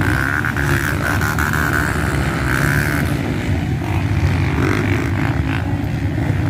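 Off-road motorcycle engine running, with a steady, loud rumble and a higher whine for the first few seconds.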